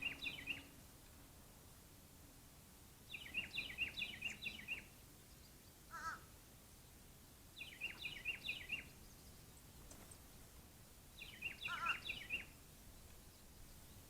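A songbird repeating a short phrase of quick down-slurred whistled notes, four times a few seconds apart, with a brief lower call in between.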